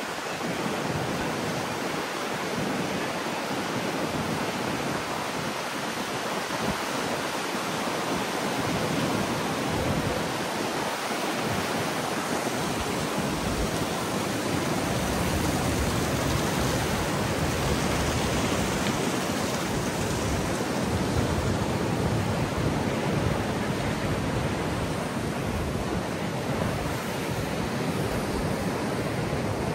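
Rough, heavy surf breaking and washing in, heard as a steady wash of noise mixed with strong wind; the low rumble builds about halfway through.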